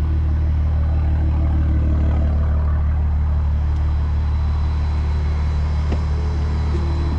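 BMW G80 M3's twin-turbo inline-six idling steadily, a low, even drone.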